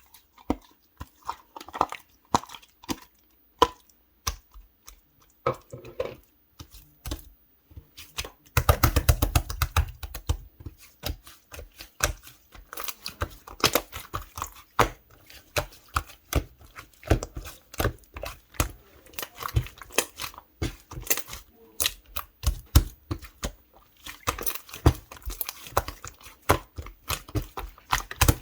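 Clear slime being squeezed and worked by hand, giving irregular sticky clicks and small air-bubble pops, with a dense burst of crackling clicks about nine seconds in.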